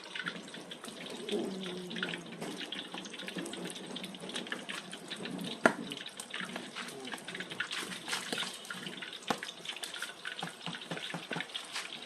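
Whole chicken deep-frying in a pot of hot cooking oil: a steady sizzle thick with small crackles, and one sharp pop a little before the middle.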